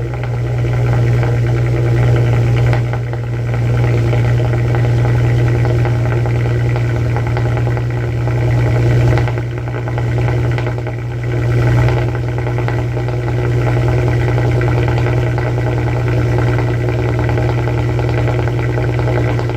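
VW R32's 3.2-litre VR6 running through a stock Mk6 Golf R cat-back exhaust, idling steadily just after a cold start. There are a few brief dips in level.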